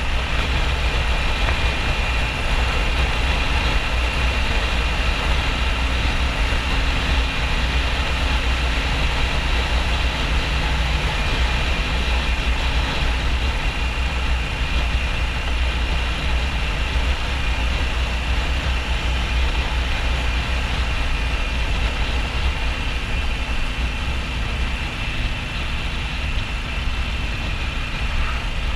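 Harley-Davidson XL1200N Sportster's air-cooled V-twin running steadily under way, mixed with heavy wind rush on the helmet-area camera microphone.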